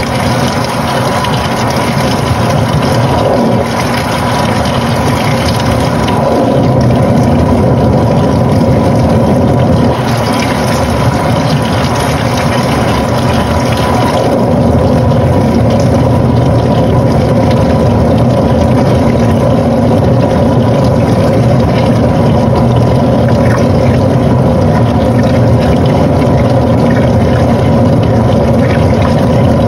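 Panasonic NA-FA80H8 top-loading washing machine running, a steady machine hum with a high whine over water-like noise.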